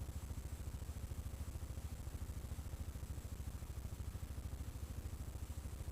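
ATV engine idling steadily, a low even pulse with no change in speed.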